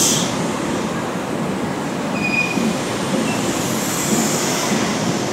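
Mark 3 coaches of an East Midlands Trains HST rolling past on the rails, a steady rumble of wheels and bogies. A brief faint wheel squeal comes about two seconds in.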